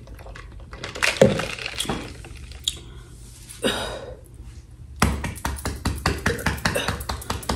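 Eating sounds close to the microphone: a few scattered clicks, then a rapid run of crisp clicking from chewing in the last two and a half seconds.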